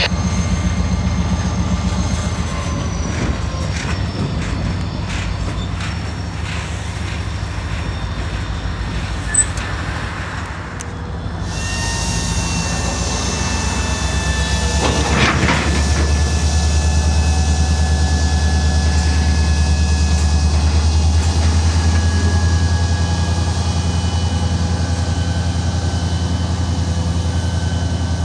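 Freight train cars rolling past on the rails, with faint high steady wheel tones that slide slowly down. After a break partway through, the train sets off again, and a strong low diesel locomotive drone builds from about halfway and holds steady.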